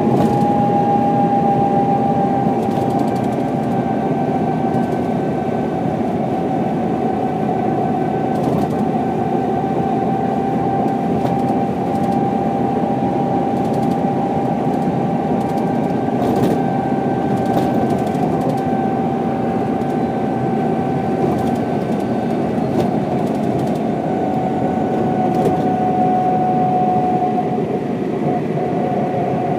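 1995 Mercedes-Benz O407 bus, its six-cylinder diesel running steadily under load while cruising at road speed. A steady high whine holds near one pitch, drifting slightly lower.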